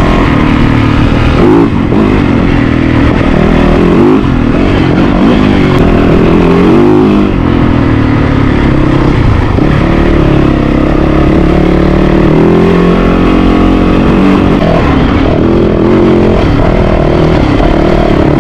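Yamaha YZ450FX four-stroke single-cylinder dirt bike engine under way, its pitch rising and falling continuously as the throttle opens and closes.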